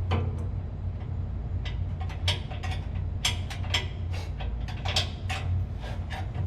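Irregular metallic clinks and taps of hand tools and fittings, a dozen or so, over a steady low machine hum.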